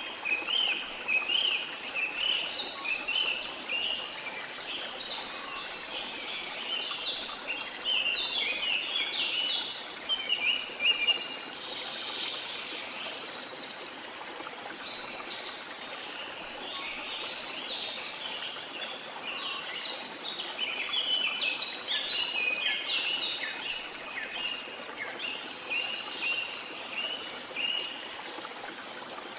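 Many birds chirping and singing in quick, overlapping short notes, over the steady rush of a waterfall. The birdsong thins out for a few seconds in the middle, then picks up again.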